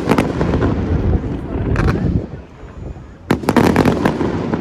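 Aerial fireworks exploding: sharp bangs at the start, another about two seconds in, and a quick cluster of cracks past three seconds, over a low rumble.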